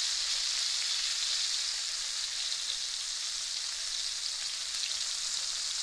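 Cornstarch-coated prawns frying in hot oil in a wok, a steady sizzling hiss.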